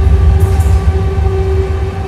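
Train running at speed, heard from the open door of a moving passenger coach: deep wheel-and-track rumble under a train horn sounding one long, steady note.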